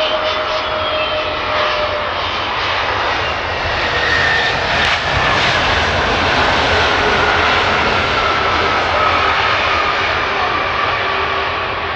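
Airbus A320 jet airliner landing, its engines running loud and steady under a whine that slowly falls in pitch, with a brief sharp click about five seconds in.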